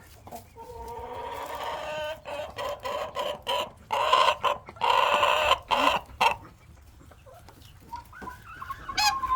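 Hens clucking and calling: a drawn-out call, then a run of short clucks for several seconds, a lull, and one more call near the end.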